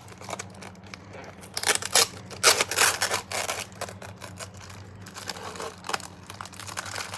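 Plastic food packaging crinkling and tearing as it is handled and opened, in a burst of loud crackles a couple of seconds in and quieter rustles after, over a steady low hum.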